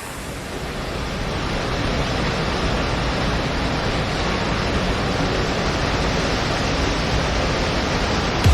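Steady rush of water, like a waterfall or surf, fading in over the first couple of seconds and then holding even.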